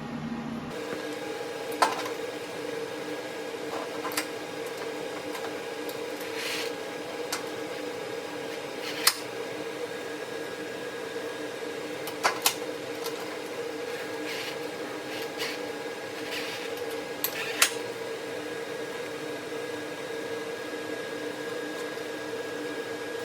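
A steady mechanical hum with a few fixed tones, broken by about half a dozen sharp knocks or clinks.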